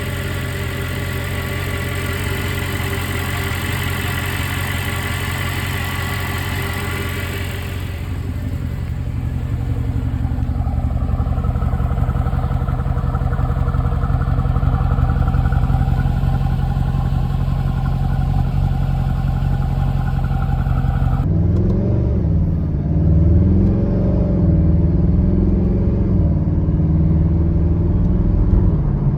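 Mercedes-Benz SLS AMG Roadster's 6.3-litre naturally aspirated V8 running steadily, changing abruptly about eight seconds in to a deeper, louder steady note. From about twenty-one seconds in, its pitch rises and falls as the engine revs and the car accelerates.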